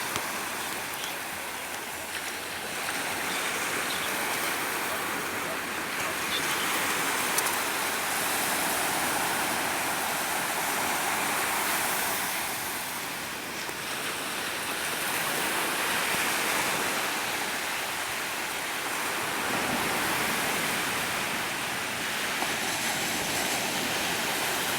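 Ocean surf: waves breaking and washing ashore, swelling and easing every few seconds.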